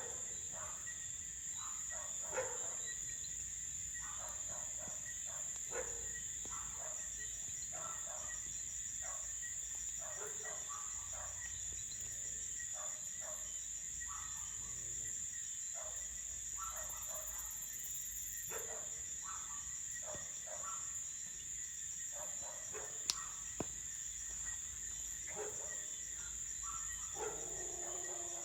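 Crickets trilling steadily in a high, unbroken chorus. Short scattered sounds and a few sharp pops come through lower down, mostly in the second half.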